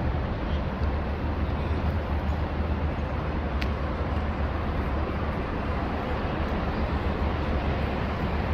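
Steady low vehicle rumble with a background haze of noise, and one brief sharp click about three and a half seconds in.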